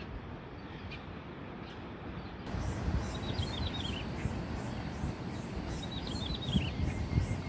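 A small wild songbird singing two short phrases of quick, high chirps that slide downward, about three seconds in and again about six seconds in, over a steady low rumble that grows louder a little after two seconds in.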